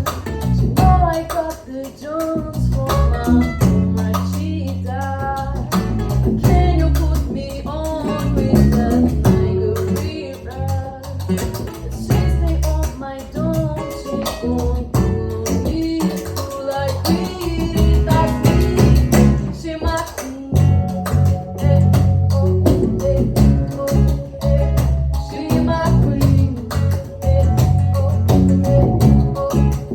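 Live performance of a song: a singer's voice over plucked guitar, with a steady low beat underneath.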